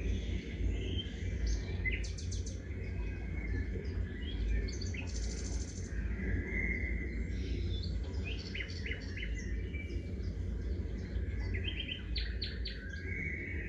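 Small birds chirping and trilling, with short calls and quick note series coming every second or two, over a steady low rumble.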